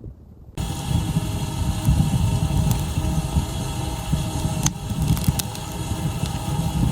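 An engine running steadily, cutting in abruptly about half a second in, with a low rumble and a few sharp ticks over it.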